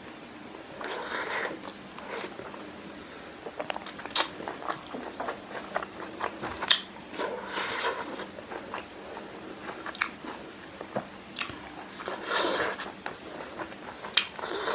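Close-up mouth sounds of eating spicy fried chicken with the hands: wet chewing and biting on the meat, with many short, sharp smacks and clicks and a few longer breathy smears.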